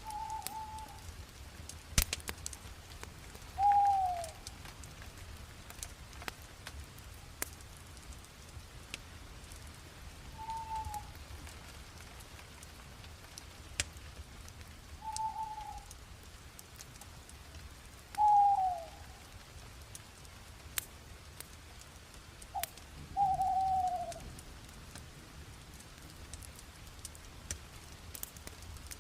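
Bonfire crackling, with sharp pops scattered through it. A bird repeats a short call every few seconds, some calls falling in pitch.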